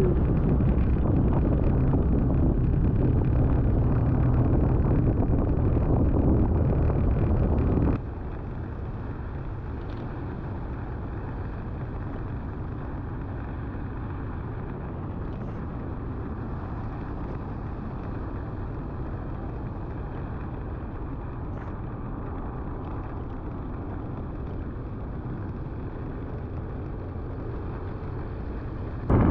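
Motorbike riding noise on an onboard microphone: a steady low rumble of engine and wind, which drops abruptly to a quieter, even rush about eight seconds in.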